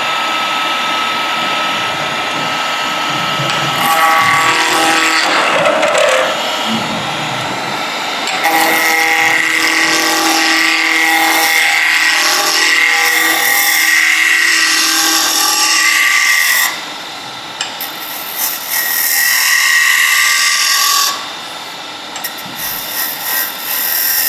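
Wood lathe running while a turning tool cuts a spinning wooden handle blank, a steady whine with a hissing cutting sound. The cutting comes in spells, easing off about two-thirds of the way through and again near the end as the tool is lifted from the wood.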